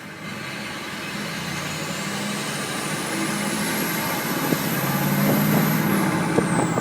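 A truck passing close by: its engine grows louder and a high whine climbs steadily in pitch. Near the end the sound peaks and the whine falls away in pitch as the truck goes past.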